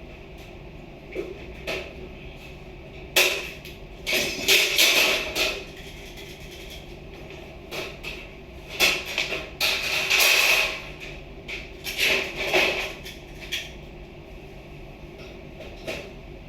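Irregular clattering, scraping and knocking of hard objects being handled and moved, in several bursts up to about a second long, with a few single knocks between them.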